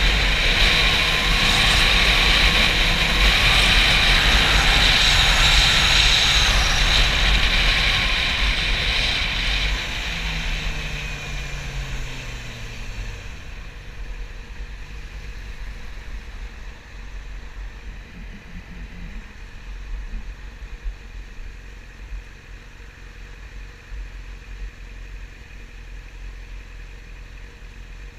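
Wind rushing loudly over the microphone at speed on a Yamaha YZF-R6, the inline-four engine under it; about ten seconds in the wind dies away and the engine note falls as the bike slows, leaving a much quieter steady running sound.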